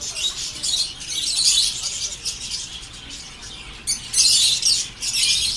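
Many small caged birds chirping at once, a dense high chatter that swells loudest about four seconds in.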